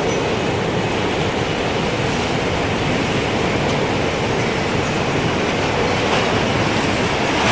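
Strong, steady rushing wind. A wind chime tinkles faintly now and then.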